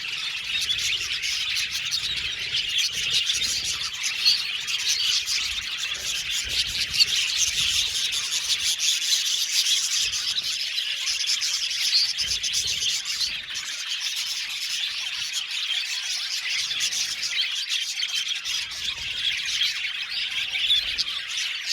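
A flock of budgerigars chattering together: a dense, continuous mix of many overlapping high chirps and warbles.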